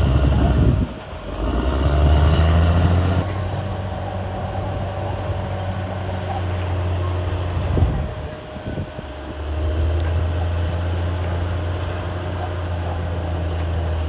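CAT D6R bulldozer's diesel engine running steadily, its note dropping briefly about a second in and again around eight seconds in, with a single sharp knock just before the second drop.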